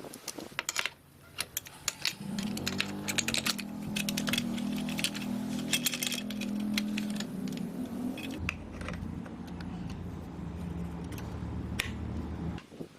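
Small single-cylinder motorcycle engine running, with a rapid metallic clicking clatter over its steady note. It cuts off abruptly near the end.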